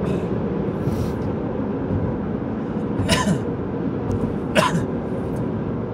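Steady low rumble of a car's cabin on the road, with a man's short throat sounds, coughs or clears, three times: about a second in, about three seconds in and near four and a half seconds in.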